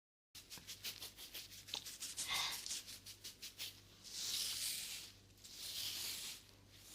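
ASMR rubbing sounds close to the microphone: a quick even run of light strokes, about six a second, then two longer rubbing swishes.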